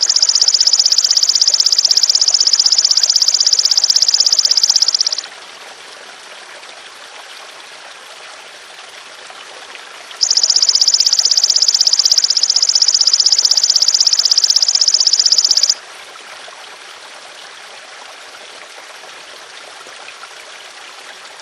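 Belalang emas (golden grasshopper) insect calling in two long, rapid, high buzzing trills of about five seconds each, the second starting about ten seconds in, over steady trickling water.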